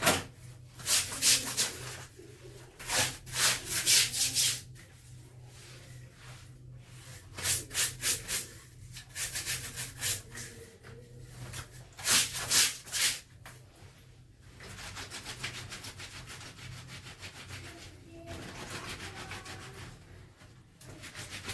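Wet clothes being scrubbed by hand, in bursts of quick rubbing strokes, then quieter, steadier rubbing over the last several seconds.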